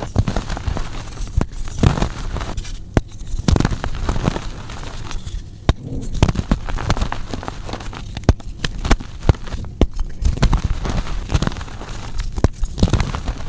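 Blocks of gym chalk being crushed and crumbled, a dense run of dry, irregular crunches and crackles with sharper snaps among them.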